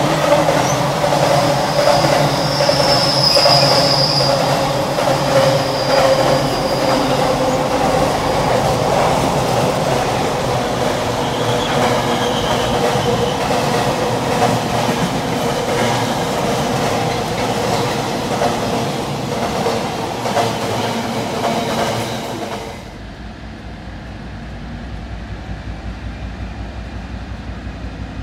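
Container wagons of an intermodal freight train roll past at close range, with wheels clattering over the rail joints and a brief high wheel squeal a few seconds in. About 23 s in this cuts off sharply, and a quieter low rumble follows with an even pulse of about two beats a second, from a diesel locomotive approaching in the distance.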